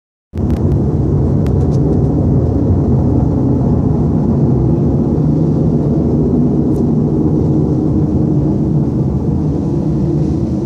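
A loud, steady roar from the sky like a gas burner. It starts abruptly and holds level, then begins to tail off near the end.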